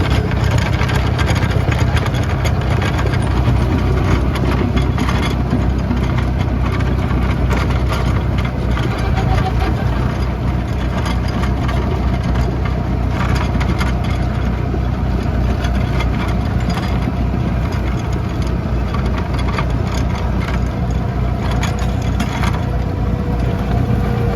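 Lovol 504 tractor's diesel engine running steadily, driving a Dalen snowblower that is clearing snow.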